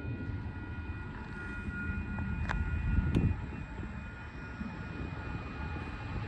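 Low, steady rumble of an approaching Union Pacific coal train, with faint steady tones above it and two short sharp clicks about two and a half and three seconds in.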